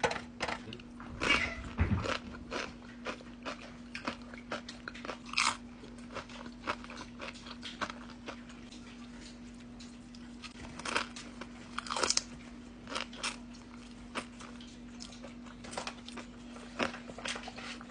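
Close-miked chewing and biting of Chipotle food: irregular wet crunches and mouth clicks, with louder bites about 1.5 s, 5.5 s and 12 s in, over a faint steady hum.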